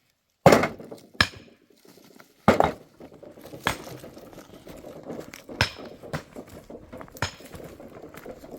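A series of sharp knocks and clinks of hard objects striking, about six at irregular intervals, with the loudest two near the start. A low rustling noise fills the gaps from about three seconds in.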